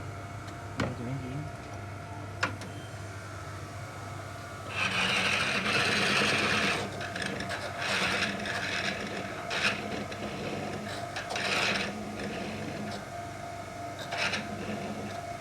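Rasping strokes: one long stroke of about two seconds, then four shorter ones spaced about two seconds apart, over a steady low hum, with a few sharp clicks before them.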